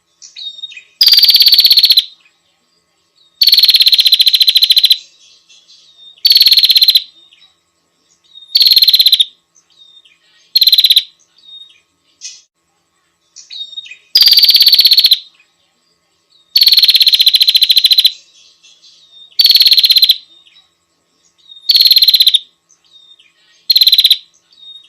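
Female prinia (prenjak) calling to attract a male: about ten loud, buzzy, rapidly pulsed rattling calls, each about a second long and opening with a slight downward slur, repeated every two to three seconds, with soft short chirps between them.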